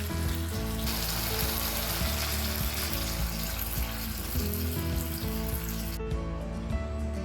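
Food frying with a steady sizzle over background music. The sizzle swells about a second in and cuts off abruptly near the end.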